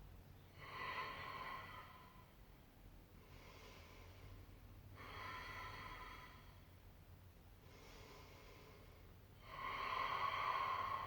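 A person breathing slowly and deeply under effort while holding a plank: three strong exhales about four seconds apart, with quieter inhales between them, the last exhale the loudest.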